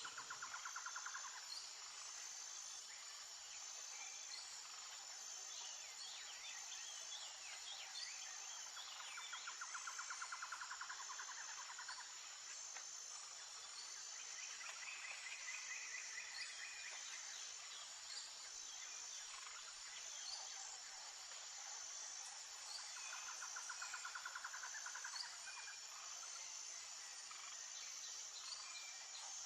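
Steady hiss of running water with a high, even insect chirping over it, and a buzzy trilling call that comes four times, each lasting about two seconds.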